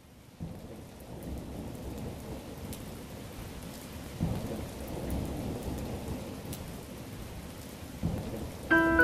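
Steady rain with low rolls of thunder swelling about half a second in, around four seconds in, and near the end. Piano notes come in just before the end.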